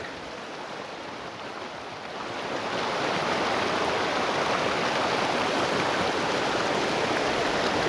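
Creek water rushing across a washed-out road, a steady rush that grows louder about two seconds in.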